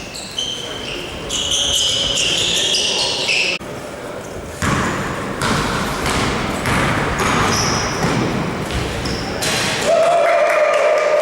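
Basketball game in a gym: sneakers squeaking on the court in short, high-pitched chirps, then the ball bouncing with players calling out, and a louder held tone near the end.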